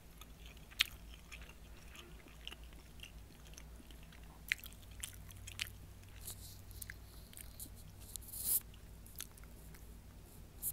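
Chewing a mouthful of meatloaf, rice and string beans: scattered soft, wet mouth clicks and smacks, a few sharper, with a short louder rustle about eight and a half seconds in, over a faint steady low hum.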